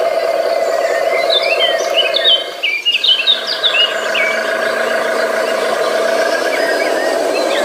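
Steady insect chorus with a run of quick bird chirps near the middle.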